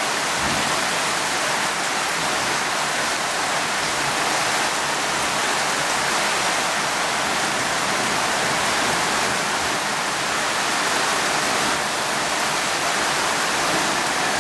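Steady, unbroken rain, a dense even hiss with no thunder heard.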